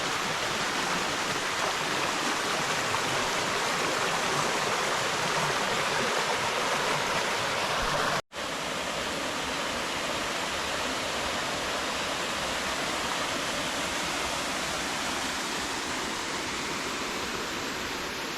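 Steady rush of flowing creek water, broken by a momentary dropout about eight seconds in.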